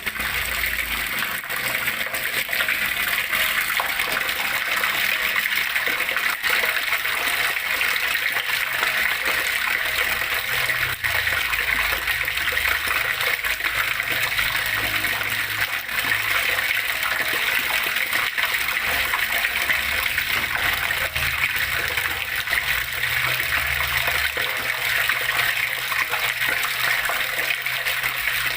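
Flowing water rushing and splashing steadily, a continuous even rush with no pauses.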